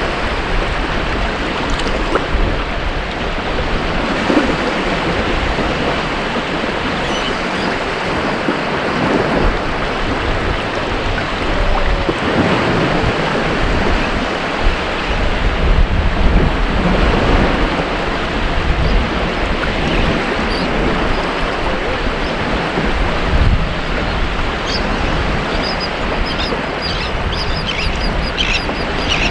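Ocean surf washing onto a beach: a continuous rush of breaking waves that swells and eases slightly.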